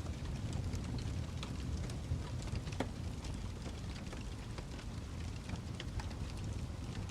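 Fireplace crackling: many small, sharp, irregular pops over a steady low background noise.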